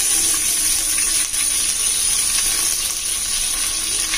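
Sliced onions and curry leaves sizzling steadily in hot coconut oil in a large metal pot, stirred with a long metal ladle that gives a few light scrapes.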